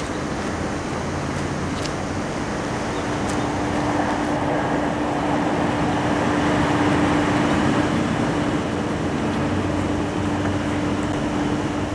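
Distant passenger train running past: a steady rushing rumble with a constant hum that swells around the middle and eases off again.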